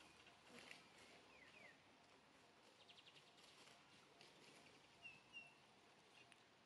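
Faint outdoor quiet with scattered bird chirps: two quick falling chirps about a second and a half in, a fast trill near three seconds, and two short whistled notes about five seconds in, the loudest sounds.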